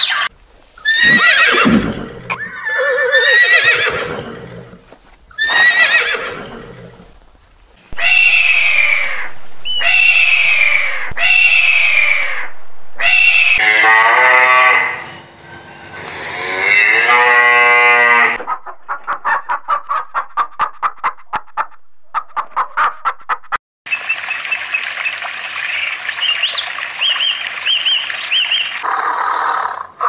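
A series of loud animal calls, each falling in pitch and repeating every second or two. They give way to a rapid run of short pulses and then a stretch of hiss with short chirps.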